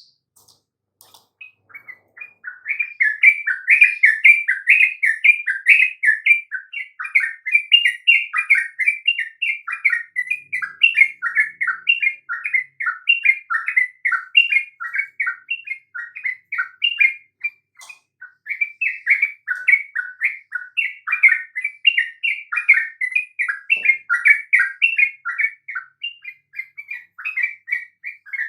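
Yellow-vented bulbul (trucukan) in full song: a fast, continuous run of short, bubbling chattering notes that starts a second or two in, with one brief pause about two-thirds of the way through.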